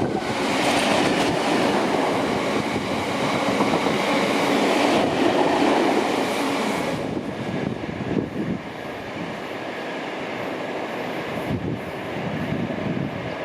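A train passing, loud for about the first seven seconds, then dropping away to a quieter rumble as it moves off.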